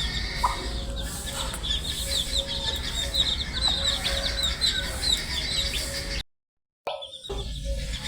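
A brood of baby chicks peeping: many short, high, falling peeps overlapping at a rapid rate, over a steady low hum. The sound cuts out to silence for about half a second about six seconds in, then returns muffled before resuming.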